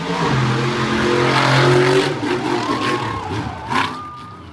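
Monster truck engine revving hard, loudest in the first two seconds, then easing off and fading toward the end.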